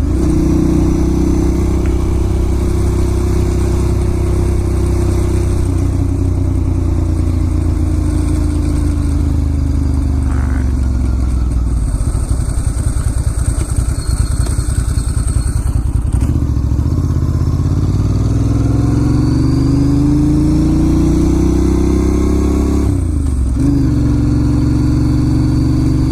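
Ducati Monster S2R 1000's air-cooled L-twin engine under way. The revs fall over about ten seconds and run low and uneven for a few seconds, then climb again. A quick dip near the end marks a gear change before it settles steady.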